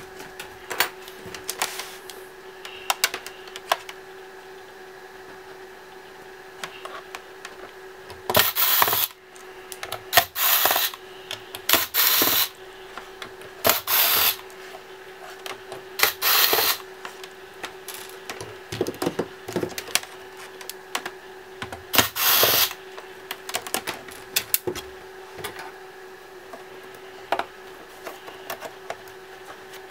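Laptop disassembly: small clicks and taps of plastic parts and screws, with about six short bursts of a cordless electric screwdriver running in the middle, each under a second long.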